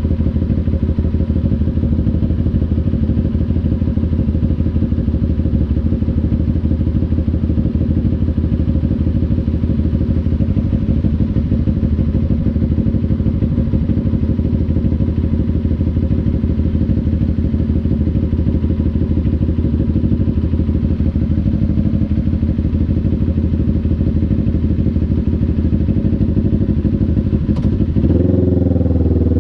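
CF Moto NK400's two-cylinder engine running at steady revs. Near the end there is a sharp click, then the revs climb.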